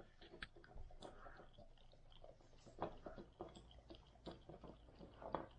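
Faint, scattered clicks and smacks of a golden retriever licking and chewing peanut butter.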